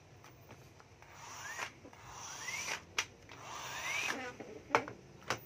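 Electric hammer drill with a 13 mm chuck triggered briefly three times: each time the motor's whine rises quickly in pitch as it spins up, then dies away. Sharp clicks fall between and after the runs.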